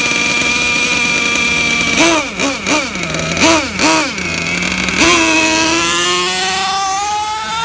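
Small two-stroke gasoline engine of a Losi LST XXL-2 RC monster truck, running steadily at first, then blipped in about five quick revs from about two seconds in, then held on for a long run with pitch slowly climbing as the truck accelerates.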